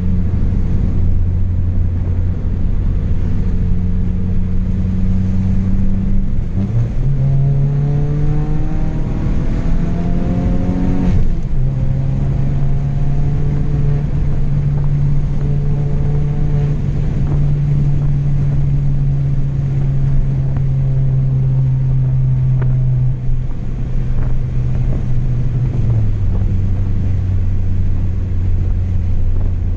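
Chevrolet Astra 2.0's four-cylinder engine running through a straight-through exhaust with no muffler while the car is driven. A steady low drone steps up in pitch about six seconds in and climbs as the car accelerates, drops back around eleven seconds as with a gear change, holds level, then falls back to the lower drone near the end.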